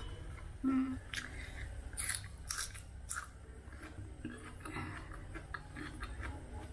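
A person chewing a mouthful of food with the mouth closed, with scattered soft crunches and wet mouth clicks. A brief low-pitched sound about a second in is the loudest moment.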